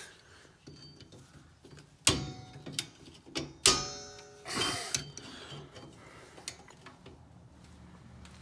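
Metal clanks and clicks of tools and brake parts being handled during brake disassembly: sharp metallic strikes about two and three and a half seconds in, the later one the loudest and ringing briefly, with smaller clicks around them.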